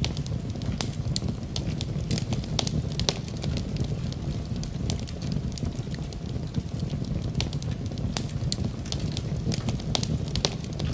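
Wood fire crackling in a fireplace, with irregular sharp pops and snaps over a steady low rushing.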